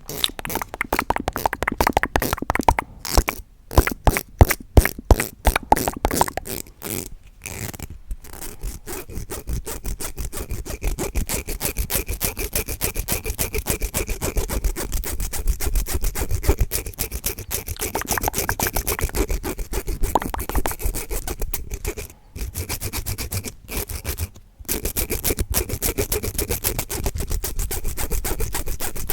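Fast, aggressive ASMR triggers close on a high-sensitivity microphone: rapid tapping clicks for the first several seconds, then a near-continuous rapid scratching and rubbing, with two short breaks near the end.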